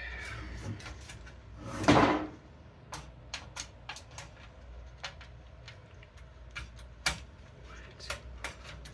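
Small clicks and knocks of computer case hardware and screws being handled during assembly, with one louder scraping rush about two seconds in.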